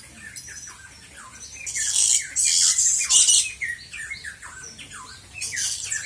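Several birds calling: a steady run of short chirps that slide downward, with loud harsh squawks from about two seconds in and again near the end.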